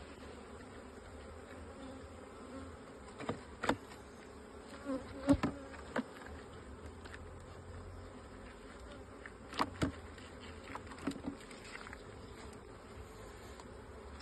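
Honeybees buzzing steadily around an open hive. Several sharp knocks and clicks of wooden hive parts being handled break in, in small clusters, the loudest about five seconds in.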